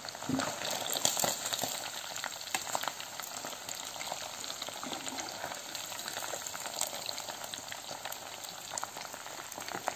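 Fish deep-frying in a metal pan of hot oil: a steady sizzle with many small pops and crackles.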